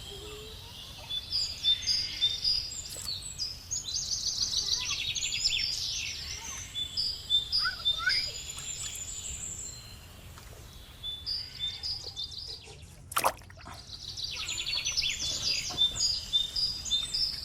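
Several birds chirping and trilling in quick repeated high notes, with a single sharp knock about thirteen seconds in.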